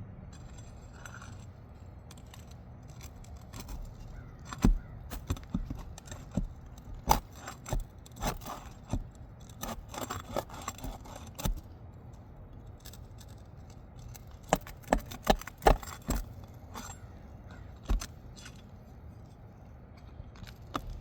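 Flat steel pry bar working under asphalt roof shingles to break their tar seal: irregular sharp clicks and scrapes of metal on shingle and loose granules, coming in clusters, busiest in the middle and tailing off with a last click near the end.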